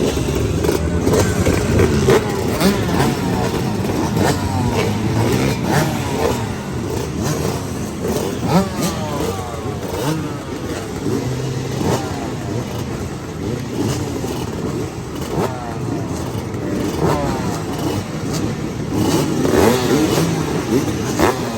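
Motorcycle engines running and revving, their pitch rising and falling again and again.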